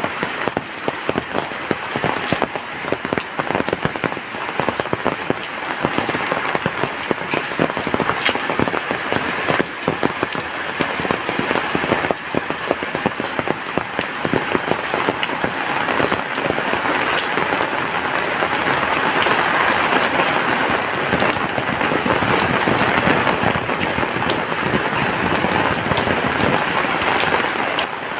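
Heavy rain falling steadily, a dense hiss full of close drop impacts, growing heavier about two-thirds of the way through and easing slightly near the end.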